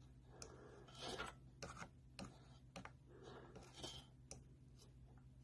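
Faint scrapes and small clicks from the plastic part being worked with the plastic-welder tip, in two short spells, over a steady low hum.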